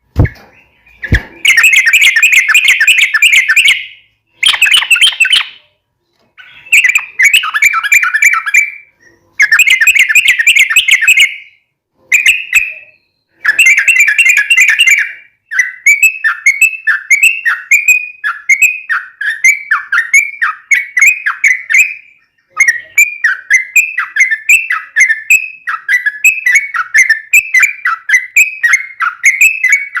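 Yellow-vented bulbul (trucukan) singing: loud bursts of rapid bubbly chatter with short pauses between them. About halfway through it changes to a steady run of repeated slurred whistled notes, about two a second. Two brief low knocks come near the start.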